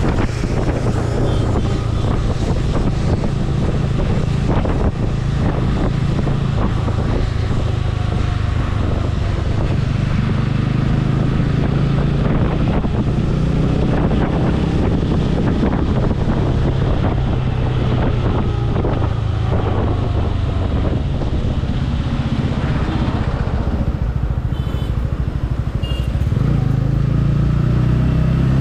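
Motorcycle engine running while riding, with wind noise on the microphone. The engine note rises and falls with the throttle.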